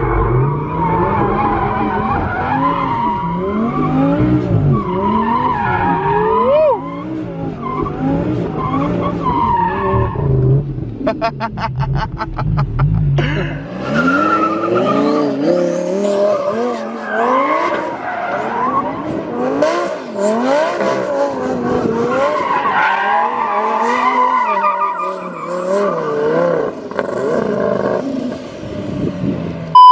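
Twin-turbo Audi R8 V10 doing donuts: the engine revs up and down over and over while the tyres squeal and skid. Partway through there is a brief, rapid, even stutter in the engine note.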